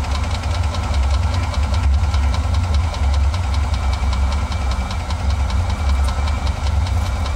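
1977 Jeep Cherokee Chief engine running at a steady idle shortly after a cold start, a deep even rumble with a fast, regular ticking of about five or six a second.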